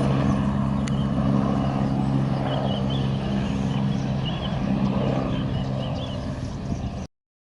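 Agusta Westland AW119 helicopter running with a steady engine and rotor hum, which cuts off suddenly near the end.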